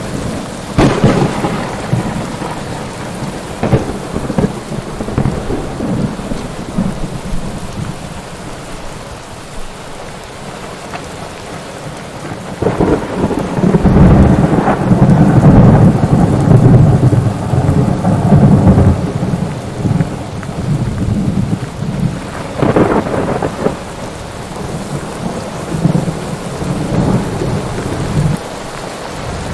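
Thunderstorm: steady rain with rolling thunder, a long loud rumble about halfway through and sharper claps near the start and about three-quarters of the way in.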